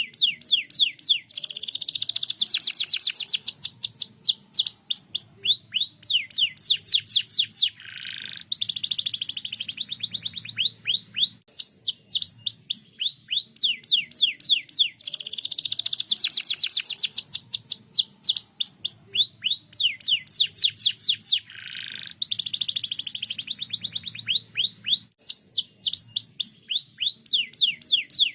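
Domestic canary singing nonstop in rapid trills of fast-repeating, down-sweeping notes, broken by short pauses about 8 and 21 seconds in. The same stretch of song comes round again about every 13 seconds, as a looped bait song played to get other canaries singing.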